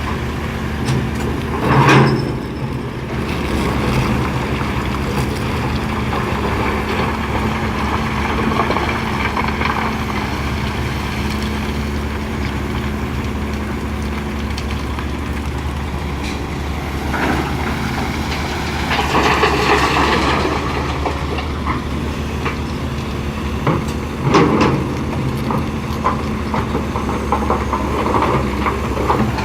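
Heavy diesel earth-moving machinery, an excavator loading a dump truck, running steadily with a deep, constant engine hum. It swells louder and noisier three times: about two seconds in, for a few seconds around two-thirds of the way through, and again soon after.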